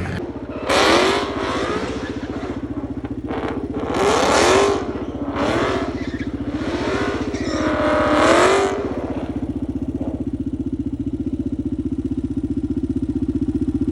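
Motorcycle engine revved in several blips, its pitch rising and falling, then settling to a steady idle about nine seconds in.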